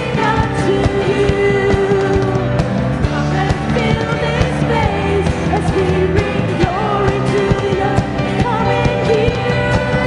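Live worship band playing a song, with a full band and drums keeping a steady beat under a sung melody.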